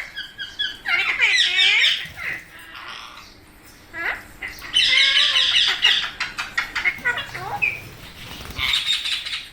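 Pet Indian ringneck parrots (rose-ringed parakeets) squawking and screeching in harsh bursts of rapid calls, with three loud bursts separated by quieter pauses.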